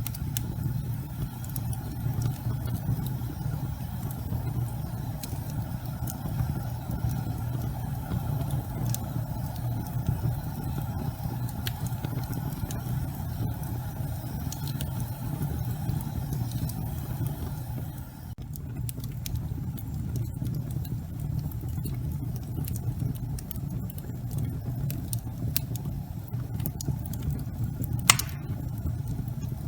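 Wood fire burning in a fireplace: a steady low rumble with scattered crackles and pops, and one sharper pop near the end.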